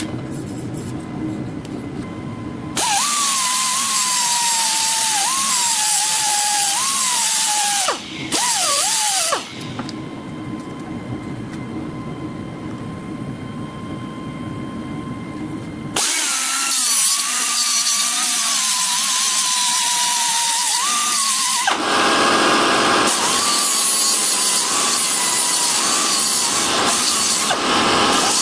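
A handheld power tool working on metal in several runs of a few seconds each. Its whine wavers and dips as the load changes, with quieter stretches of lower running in between.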